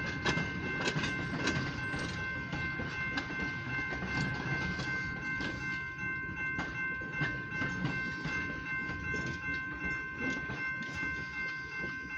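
Oil Creek & Titusville passenger train cars rolling by, their wheels clicking irregularly over rail joints above a low rumble. A grade-crossing bell rings steadily over it.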